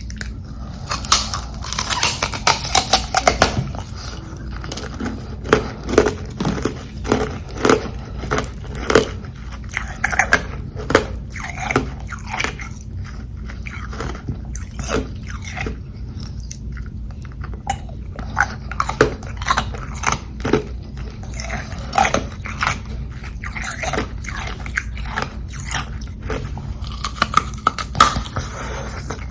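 Close-up biting and chewing of frozen carbonated ice: crisp, repeated crunches, a dense flurry in the first few seconds, then irregular crunches.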